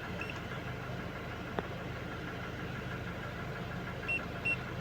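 Toyota Innova engine idling steadily. A few short high beeps sound near the start and twice near the end, with a single small click in between.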